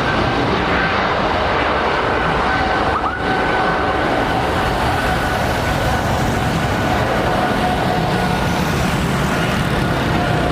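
Jet airliner engines running: a steady loud roar with a faint, even whine at two pitches above it.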